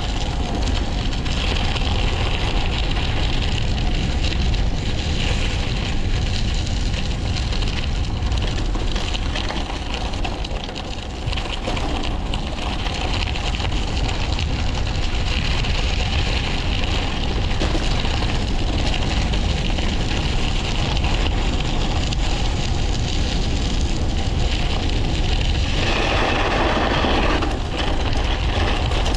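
Wind buffeting the microphone over a steady rumble from a bike riding downhill. A brighter hiss swells for about two seconds near the end.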